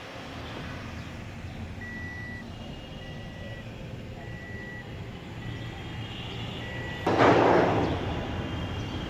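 A vehicle's reversing alarm beeping, one high beep about every second, over a steady low traffic rumble. About seven seconds in, a sudden loud rush of noise cuts in and fades away within a second.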